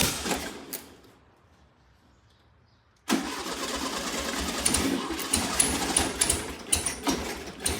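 1973 VW Super Beetle's air-cooled flat-four being cranked on the starter in two tries: a short one that stops within the first second, then a longer one of about four and a half seconds that ends near the end. The engine does not settle into a steady run, and the crew suspects the ignition timing.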